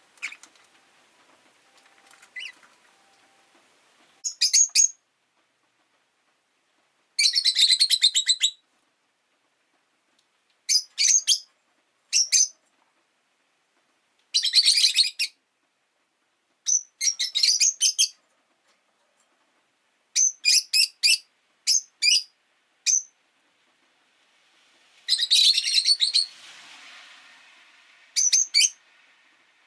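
Rosy-faced lovebirds chirping in rapid, high-pitched bursts, one flurry of chirps every second or few. A faint rushing noise lies under the calls near the end.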